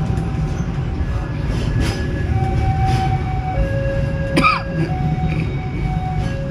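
Steady low rumble of a passenger train heard from inside the carriage, with faint held tones changing pitch every second or so and one brief sharp sound with a falling squeal just past the middle.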